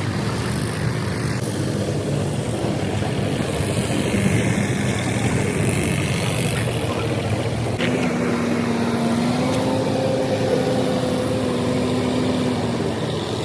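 An engine running steadily, with a second steady tone joining in about eight seconds in and fading near the end.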